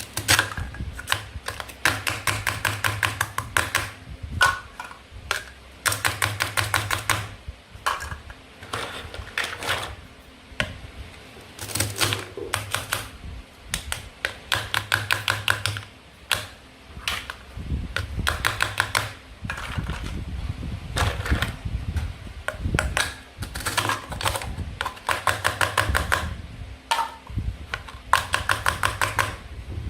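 Rapid runs of sharp clicking taps, each run a second or two long, repeated over and over: a toy knife chopping through plastic and wooden play food on a toy cutting board.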